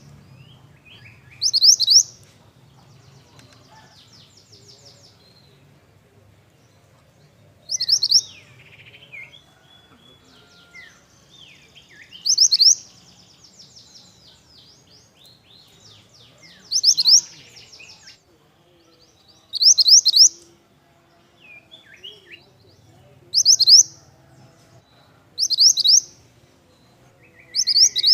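A mantenan bird calling again and again: short, loud, high-pitched bursts of a few rapid sweeping notes, repeated every two to six seconds, with softer twittering chirps in between.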